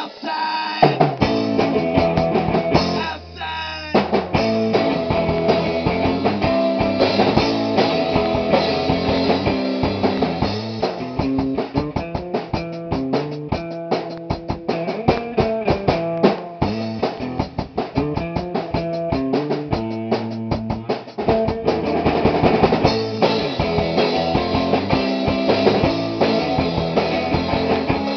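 Rock band playing a song: a drum kit keeps a steady beat with bass drum and rimshots under guitar chords. A brief lull about three seconds in, then the full band carries on.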